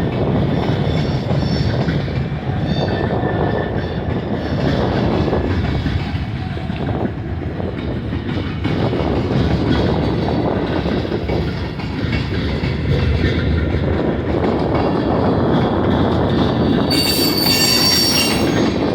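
Freight cars of a long manifest train rolling past with a steady rumble of wheels on rail and thin, high wheel squeal. A louder, shriller squeal comes in near the end.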